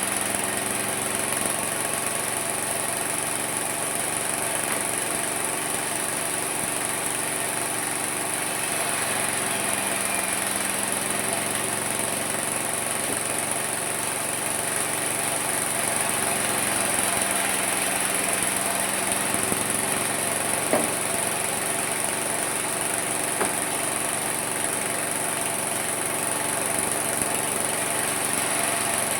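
Homemade mini sawmill running steadily, a constant machine drone whose pitch sags slightly a couple of times as it works, with one short click partway through.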